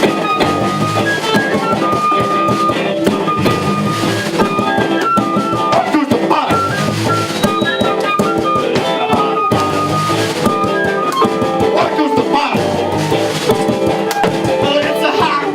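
A live rock band playing loudly, with electric guitar and drum kit.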